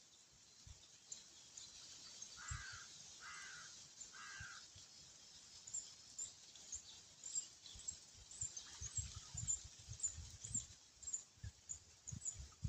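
A bird calls three times in quick succession, about a second apart, over faint high chirping. Scattered low thuds follow in the second half.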